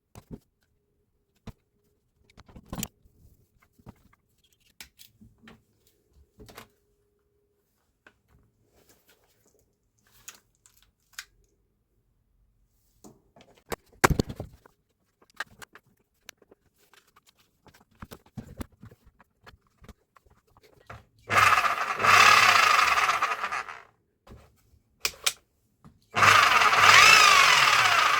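Scattered clicks and knocks of the tool being handled, then a Hilti TE 76 ATC rotary hammer is run: loud motor noise with a pitch that slides up and down for about two and a half seconds, a short stop, then running again near the end.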